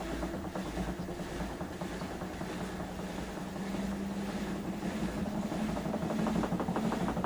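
LG TurboWash 360 direct-drive washing machine in its final spin at 400 rpm: a steady motor-and-drum hum whose pitch edges slowly upward and grows a little louder near the end.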